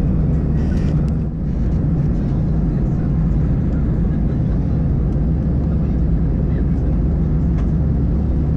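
Steady low drone of an Airbus A320's engines heard inside the passenger cabin, with a brief click about a second in.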